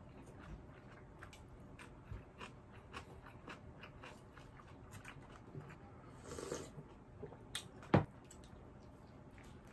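Close-up chewing of a mouthful of food: soft, wet mouth clicks repeating two or three times a second. About eight seconds in comes one sharp knock of tableware, the loudest sound.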